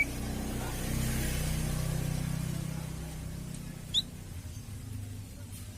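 A low rumble in the background swells and slowly fades, with a single short, sharp bird chirp about four seconds in.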